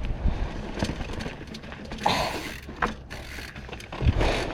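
Mountain bike clicking and rattling, its freehub and drivetrain ticking like a ratchet. There are two short hissing bursts in the middle and a loud knock near the end.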